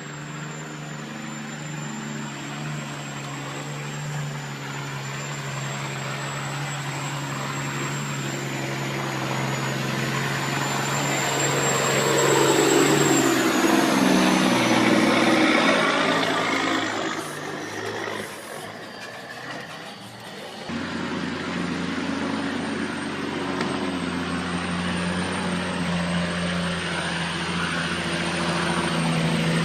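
Heavy vehicle engine running steadily, swelling louder for several seconds around the middle, then an abrupt switch to another steadily running engine about 21 seconds in.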